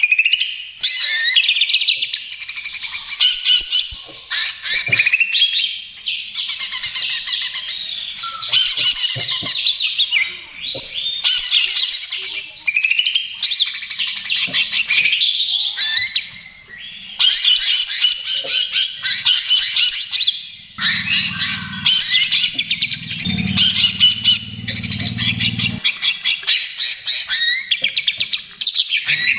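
Cucak ijo (green leafbird) singing vigorously in the fast, near non-stop 'trotol' style, a stream of rapid trills and warbled notes broken by short pauses. A low hum sits under the song for a few seconds near the end.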